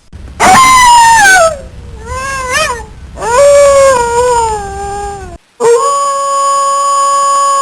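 Canine howling: a howl that falls in pitch, a shorter wavering one, another slowly falling howl, then a long howl held on one pitch. A low rumble runs under the first three.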